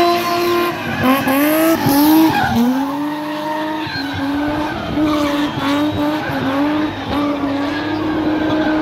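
BMW M20 straight-six engine held at high revs in a car spinning its tyres, the pitch dipping and climbing back again and again as the throttle is worked. A steady hiss of skidding tyres runs underneath.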